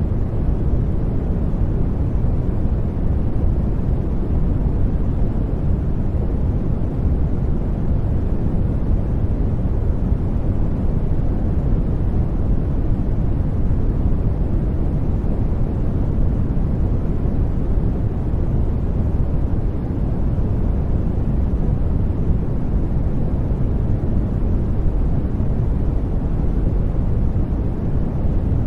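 Continuous white-noise track for studying, weighted heavily toward the low end so it sounds like a deep, even rumble, unchanging throughout.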